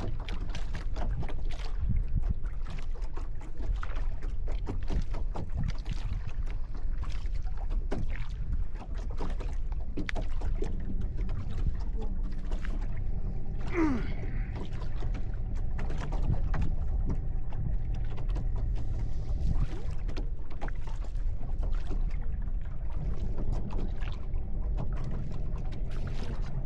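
Boat under way on the water: a steady low rumble with scattered short knocks and splashes, and a faint steady drone through the middle.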